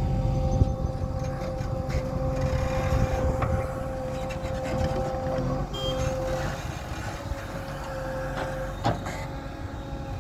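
Heavy diesel machinery running steadily, a low engine rumble with a steady high whine over it and scattered clanks, with one sharper knock near the end.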